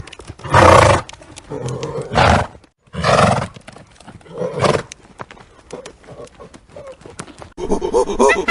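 A horse calling four times in short loud calls, with faint clicks between them. Near the end, a different animal starts a rapid run of pulsed calls.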